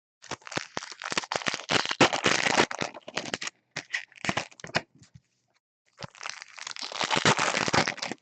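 Foil trading-card pack wrappers being torn open and crinkled by hand: a long stretch of crackling and crinkling, a few scattered clicks, a pause, then another burst of crinkling near the end.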